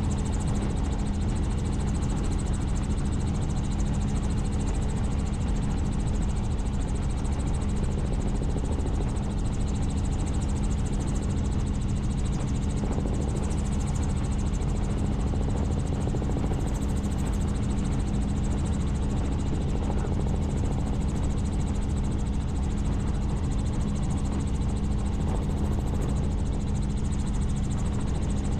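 Helicopter in flight: steady rotor and engine noise with a constant low hum, unchanging throughout.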